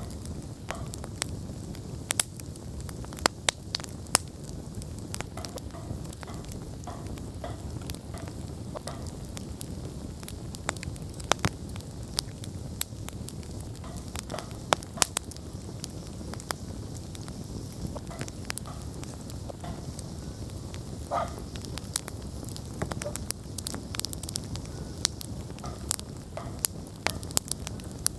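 Wood campfire burning: a steady low flame rush with irregular sharp crackles and pops from the burning logs, and a brief hiss of escaping sap or steam about two-thirds of the way through.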